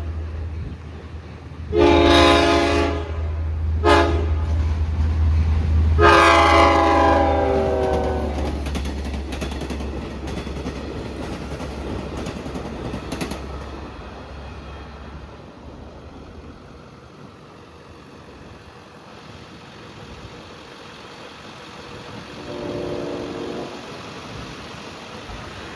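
Long Island Rail Road diesel passenger train passing and sounding its horn: a blast about two seconds in, a short one at four seconds, then a longer one that drops in pitch as the train goes by. A low engine rumble runs under the horn and fades out after about fifteen seconds, and a faint short horn sounds again near the end.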